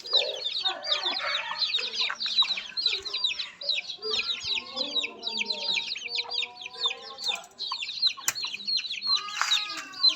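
Poultry flock: a constant chorus of high, falling peeps from many young chicks, with lower clucking calls mixed in.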